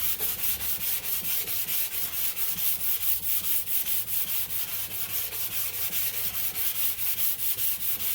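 Rapid back-and-forth hand sanding, about four to five strokes a second, of spot putty over a small dent repair on a car body panel. The paper is 220-grit, and the strokes take the finishing putty down level with the metal.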